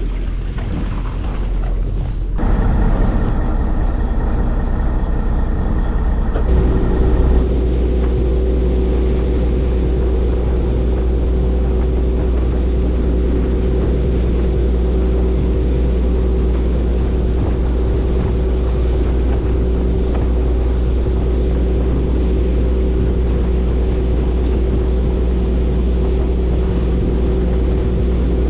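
Fishing boat's engine running steadily under way. The first couple of seconds hold wind and water noise; then the engine sound comes up, with a brief higher-pitched stretch, and settles into an even, unchanging tone.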